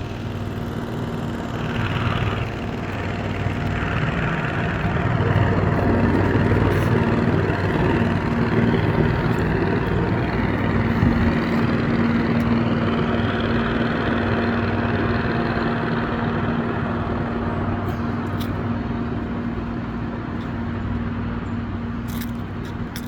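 A leaf blower's small engine running at a steady pitch, its rushing air swelling and fading as it is swept about.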